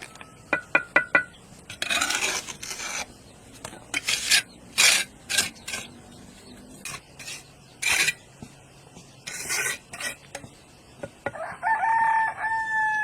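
A few quick knocks, then a series of irregular rasping scraping strokes. A rooster crows once near the end.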